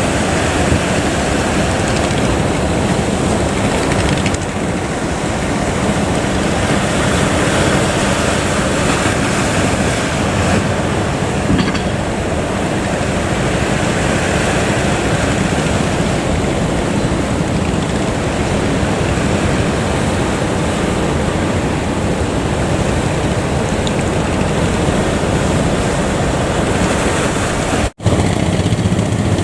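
Steady roar of surf and wind buffeting the microphone, with a low engine drone underneath. The sound cuts out for an instant near the end.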